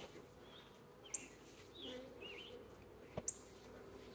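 Short chirping bird calls over a faint steady hum of honeybees from the open hive. A few sharp clicks stand out, one about a second in and two close together a little past three seconds.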